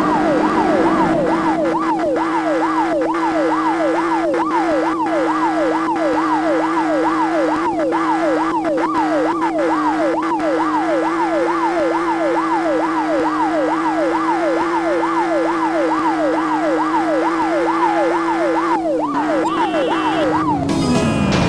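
Police car siren wailing in a fast yelp, about two sweeps a second, over a steady hum. The siren cuts off near the end, and the hum falls in pitch.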